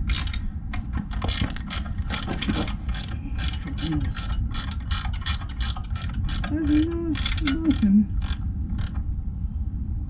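Ratchet wrench clicking in a run of repeated strokes as a fastener is worked on the motorcycle. A low wavering tone sounds briefly twice near the middle.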